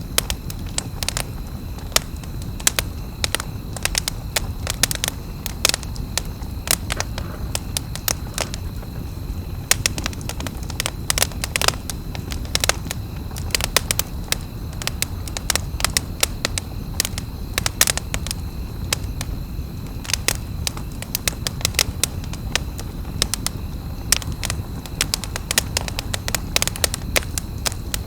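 Wood fire crackling, with many sharp irregular snaps over a steady low rumble.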